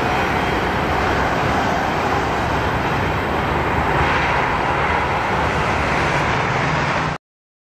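Steady roar of a freight train rolling away down the track, mixed with highway traffic noise. It cuts off abruptly near the end.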